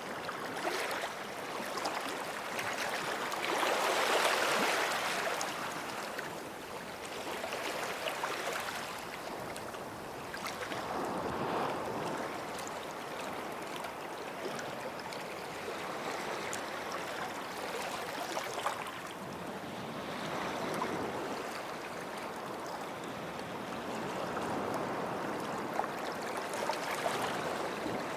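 Small sea waves washing onto a sandy shore, the surf rising and falling in slow swells every several seconds, loudest about four seconds in.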